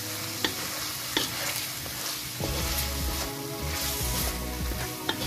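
Chicken pieces coated in chilli powder, turmeric and biryani masala sizzling in hot oil in a pan as they are stirred with a wooden spatula, which clicks against the pan a few times. Background music comes in about halfway through.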